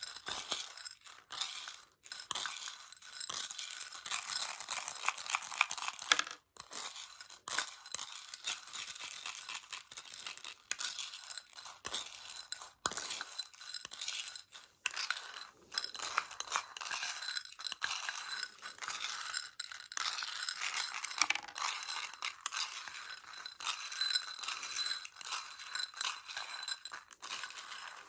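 ASMR tapping and handling of Choco Baby chocolates, tiny chocolate pellets in a plastic case: a dense, continuous run of small clicks, rattles and scratches, with a few sharper taps.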